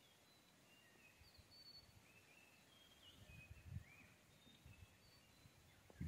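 Faint bird chirps and short whistled notes, scattered and some sliding upward, over quiet outdoor ambience. A few low thumps come about halfway through.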